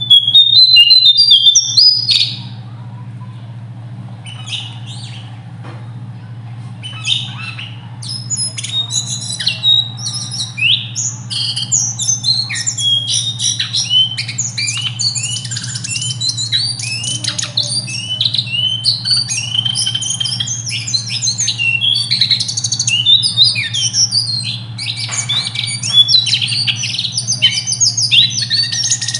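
A small songbird singing a fast, high-pitched song of sharp piercing notes and rolling trills (the 'nembak ngerol' style). It is loud for the first two seconds, sparser for a few seconds, then nearly continuous from about seven seconds in, over a steady low hum.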